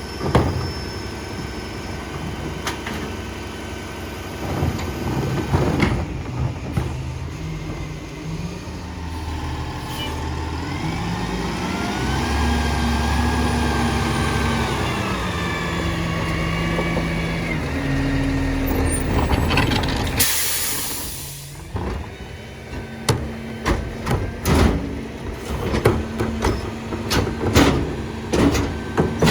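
Peterbilt 348 rear-load garbage truck: the diesel engine revs up with a rising hydraulic whine as the rear packer cycles. About twenty seconds in there is a sharp air brake hiss, followed by a run of loud metal clanks and bangs.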